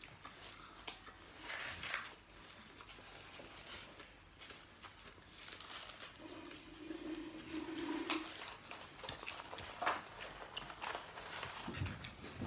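Close-up eating sounds: a person chewing a mouthful of burger, with small wet clicks and soft rustles of paper wrapping. About six seconds in there is a short low closed-mouth hum lasting about two seconds.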